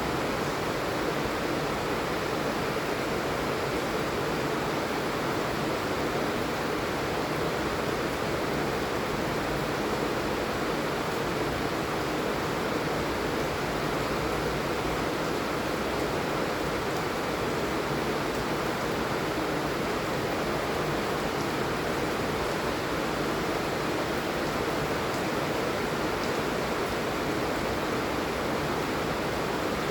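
Steady heavy rain falling, an even hiss without breaks.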